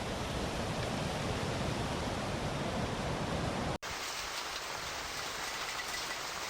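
Heavy rain pouring, a steady rushing noise. A little under four seconds in, an abrupt cut switches to another stretch of rain noise with less low rumble.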